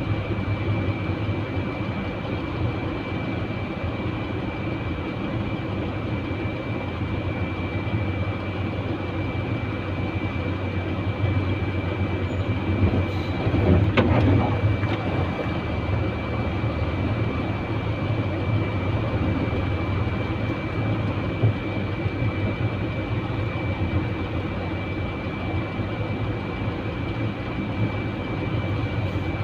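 Truck engine running steadily, with a constant thin high whine over it; the noise swells briefly about halfway through.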